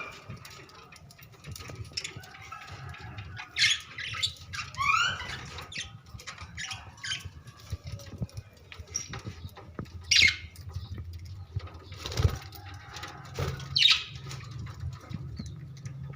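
Several budgerigars chirping and squawking: short sharp calls scattered throughout, with a quick run of rising chirps about five seconds in.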